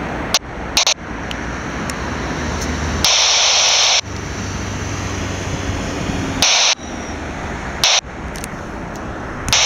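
Steady noise of airliner jet engines, broken several times by sudden short bursts of hiss, the longest lasting about a second.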